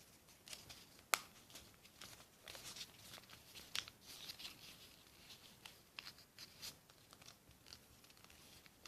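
A sheet of notepad paper being folded and creased by hand: scattered quiet crinkles and clicks, with one sharper snap about a second in.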